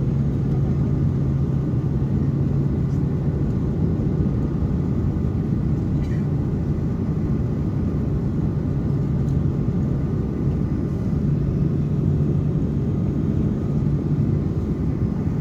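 Steady low rumble of airliner cabin noise: engines and airflow heard from inside the cabin, with a constant low hum.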